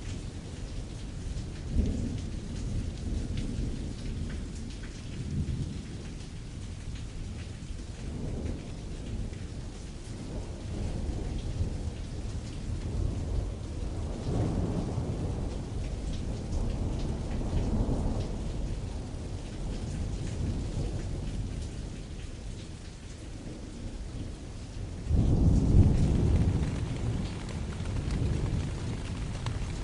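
Rain falling on canvas with distant rolling thunder. The low rumble swells and fades several times and surges loudest about 25 seconds in.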